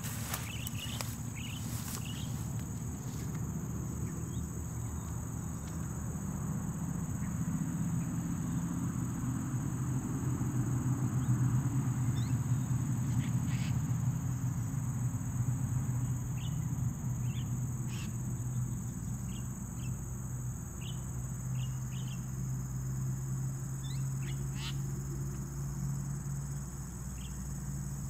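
Short, sharp bird chirps now and then, over a steady high-pitched whine and a low steady hum that swells around the middle and eases off near the end.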